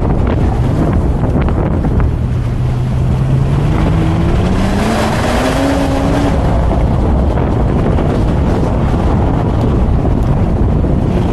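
Heavy wind noise on the microphone over a car driving at speed. Under it, the BMW Z4 M40i's turbocharged straight-six rises steadily in pitch under acceleration from about two seconds in, then drops out about six seconds in.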